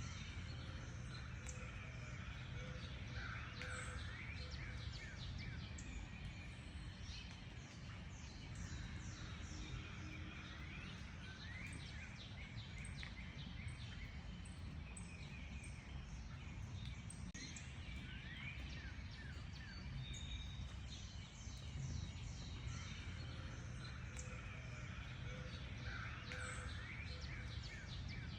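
Several wild birds chirping and calling, with many short chirps and quick rising whistled notes, over a steady low rumble of background noise.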